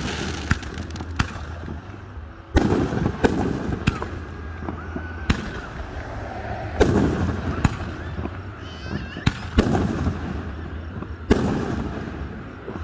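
Aerial fireworks display: about a dozen sharp booming shell bursts at irregular intervals, each trailing off in an echo.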